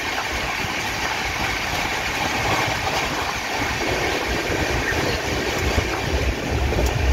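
Steady rumble and rush of rail noise as a train of Indian Railways second-class coaches passes close by on the next track, heard from the window of a moving train. A low rumble grows louder near the end.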